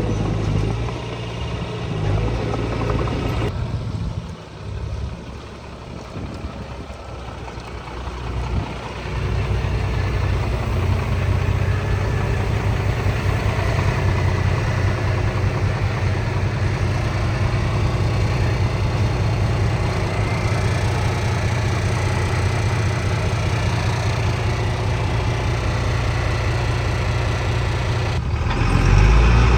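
Diesel engine of heavy earthmoving machinery running steadily, with abrupt changes in level: a quieter stretch from about 4 to 9 seconds in, then a steady engine note that gets louder near the end.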